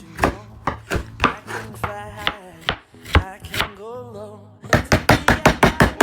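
Kitchen knife chopping on a cutting board, steady strokes that speed up near the end into a fast run of rapid chops.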